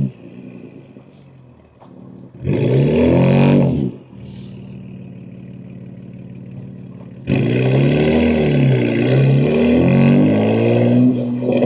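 BMW M2 G87's S58 twin-turbo inline-six, with catless downpipes, accelerating. It pulls hard briefly about two and a half seconds in, eases back to a low steady drone, then from about seven seconds on runs loud again with the revs climbing and falling through gear changes.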